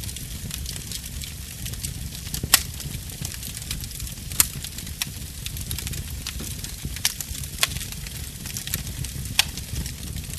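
Wood fire in a fireplace crackling: scattered sharp pops, the loudest about two and a half and four and a half seconds in, over a low steady rumble of the flames.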